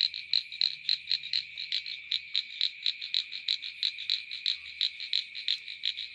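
Frogs calling: a quick series of short, high croaks, about three a second, over a steady high trill.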